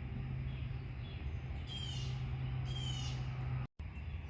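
Blue jay giving two short, harsh, falling calls about two seconds in, the scolding of birds mobbing near a hurt bird.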